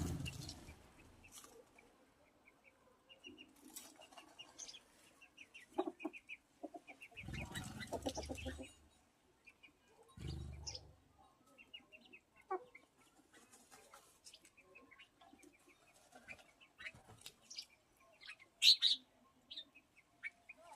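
Birds calling with many short chirps. A few low, muffled thumps come and go, and one sharper, louder call comes near the end.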